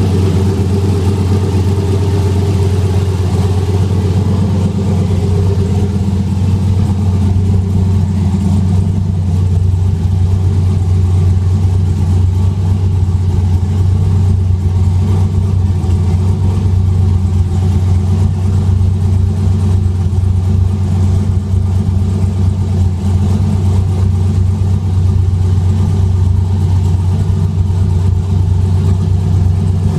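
Turbocharged Chevrolet 6.0-litre V8 fitted with an On3 Performance turbo kit, idling steadily at an even pitch.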